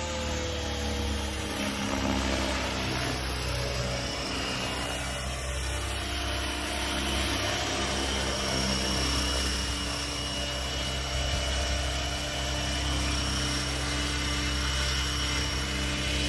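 Electric radio-controlled helicopter, an Align T-Rex 550E, running steadily: a low rotor hum with a thin high-pitched whine from the electric motor and gears.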